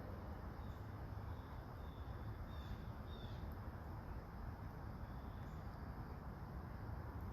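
Quiet outdoor ambience in light rain: an even hiss over a low rumble, with a few faint, brief high bird chirps, most of them about three seconds in.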